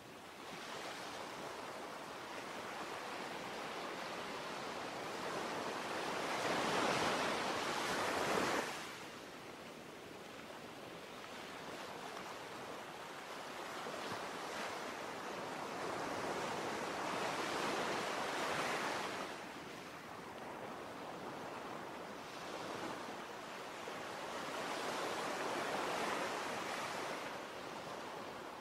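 Ocean surf: waves washing in as a rising and falling rush, three long swells, the first breaking off sharply about eight and a half seconds in.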